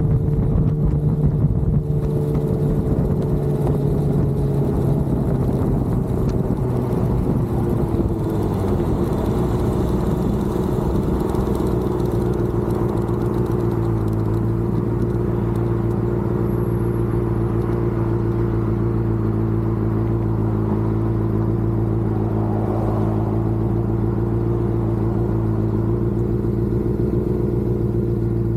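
A vehicle's engine heard on board while driving. Its pitch falls over the first several seconds as it slows down, then it runs at a steady speed.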